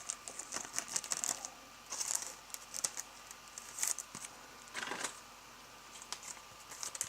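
Trading cards being handled and slid against one another: scattered light clicks and brief papery rustles, the clearest about two, four and five seconds in.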